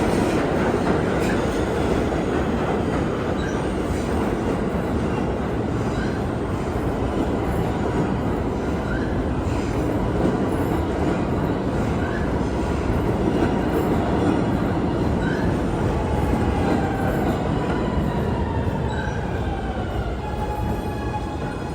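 New York City subway train running through the station, a steady loud rumble of wheels on rail with wheel squeal. A thin whine falls in pitch over the last few seconds.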